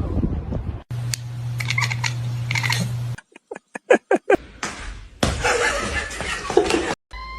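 A person laughing in short bursts, cut together with other brief home-video sounds that change abruptly several times.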